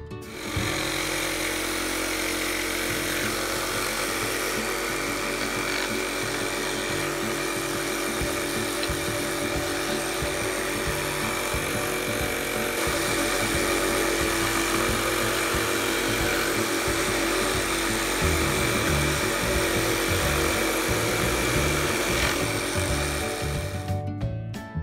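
A power tool running steadily for over twenty seconds, getting a little louder about halfway through and stopping near the end.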